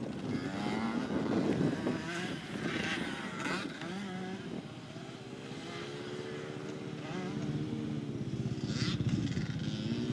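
Dirt bike engine on a motocross track, fairly faint, its pitch rising and falling as the rider works the throttle through the first few seconds, then settling into a steadier, slowly climbing drone.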